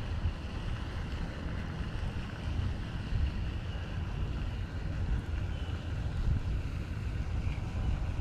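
Wind buffeting an action-camera microphone: a steady low rumble.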